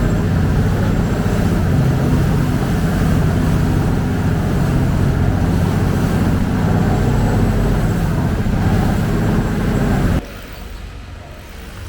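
Engine of a public passenger boat running loudly and steadily at a constant pitch. About ten seconds in it drops off abruptly to a much quieter background.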